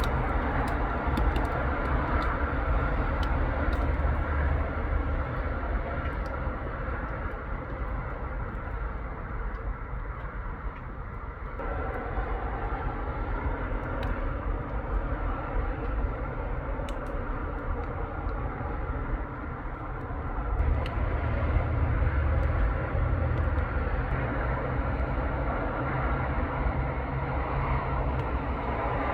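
Road traffic passing on a busy street: a continuous mix of engine rumble and tyre noise. A heavier, deeper engine rumble swells in about two-thirds of the way through.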